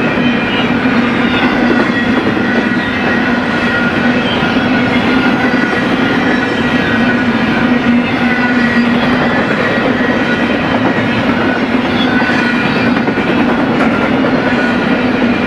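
BNSF freight train rolling past close by: a loud, steady running noise of wheels on rail, with a few thin steady high tones over it.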